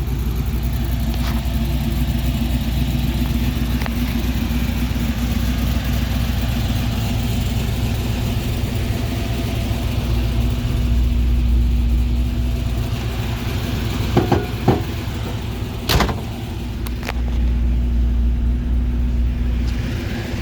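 6.0-litre LQ9 V8 of a 1974 Pontiac Trans Am idling steadily through a Magnaflow stainless exhaust, a low even rumble. A few short sharp knocks come about two-thirds of the way through.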